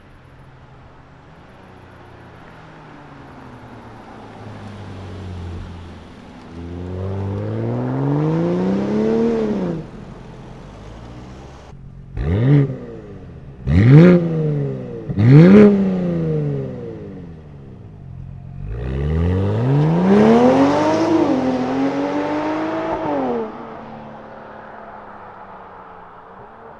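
BMW X5 45e's turbocharged 3.0-litre inline-six, breathing through an OPF-delete midpipe and a valved catback exhaust, accelerating with rising pitch. It then gives three short, sharp bursts of throttle, and after that a longer pull with a gear change partway through, before fading away.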